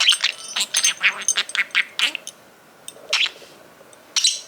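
A pet budgerigar chattering quickly over the jingle of a small toy bell for about two seconds, then two short chirps or jingles about a second apart.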